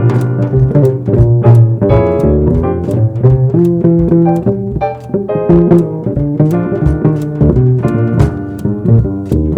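A jazz trio playing: plucked upright bass lines under keyboard chords, with drums and cymbal strokes keeping time.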